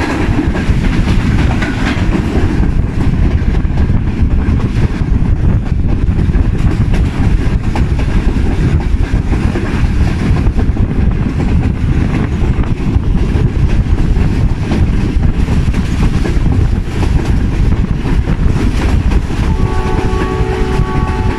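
Express passenger train running at speed, heard from an open coach doorway: a loud, steady rumble of wheels on the track mixed with rushing air. Near the end the ZCU-20 diesel locomotive's horn starts sounding in a couple of blasts.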